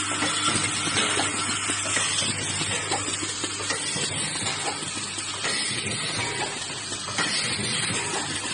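Automatic nail-and-hook welding machine running: a steady hiss over a low electrical hum, with light rapid ticking from the mechanism throughout.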